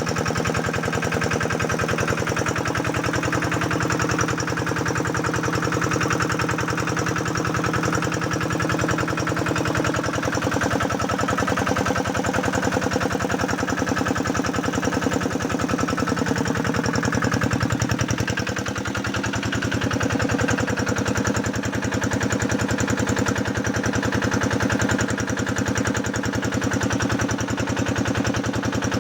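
Diesel engine of an irrigation pump running steadily at a constant speed, driving a shallow tube well.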